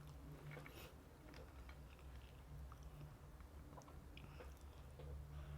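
Faint chewing of crispy fried chicken, with small scattered crunches and mouth clicks.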